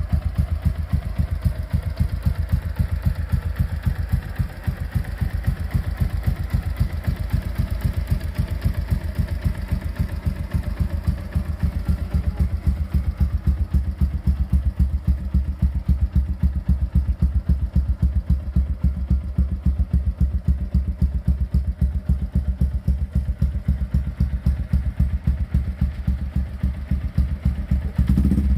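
Yamaha Vixion's single-cylinder four-stroke engine idling steadily through an aftermarket Tsukigi SX Performance exhaust, a fast, even exhaust beat.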